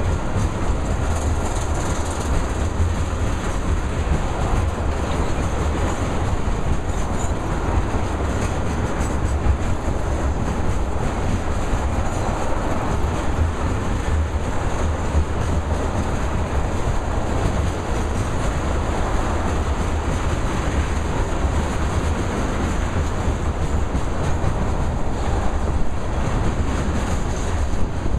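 Ethanol tank cars of a freight train rolling past: a steady, continuous noise of steel wheels on the rails.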